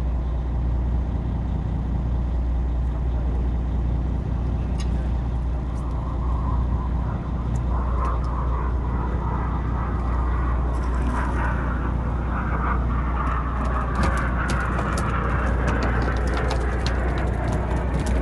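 Boat engine running with a steady low hum. From about halfway through, a dense run of rapid sharp clicks joins it.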